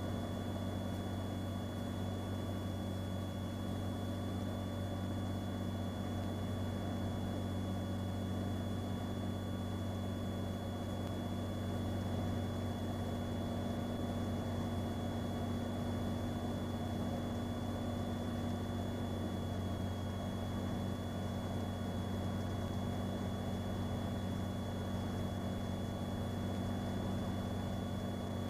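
Cirrus SR22's six-cylinder piston engine and propeller droning steadily, heard inside the cabin on final approach after power is eased back. The low drone stays even throughout, with a faint steady high whine above it.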